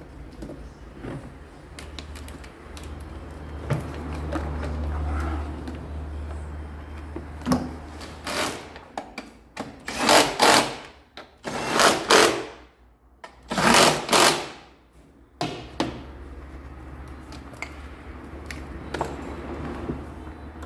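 Workshop tool noise: scattered clicks and knocks over a steady low hum, with four loud bursts of about a second each in the middle, such as a pneumatic tool or air line being used.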